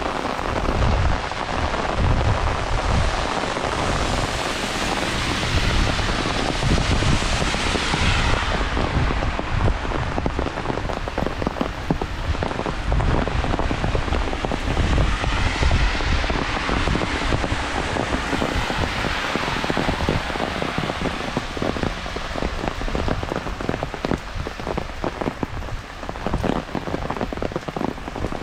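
Heavy rain falling steadily, with dense drops pattering on surfaces. Low rumbles swell and fade at times.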